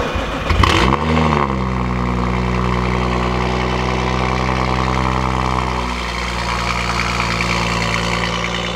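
BMW 4 Series coupe engine cold-starting: the starter cranks for about a second, then the engine catches with a quick flare in revs and settles into a loud, steady fast idle at the exhaust. About six seconds in the idle steps down a little in pitch.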